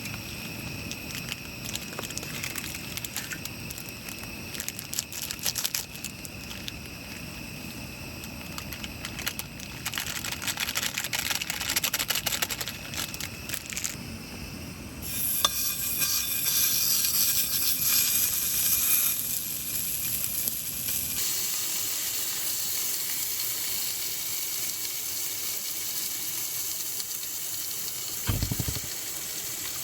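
Food cooking with a steady hiss and crackle, changing about two-thirds through to an even frying sizzle.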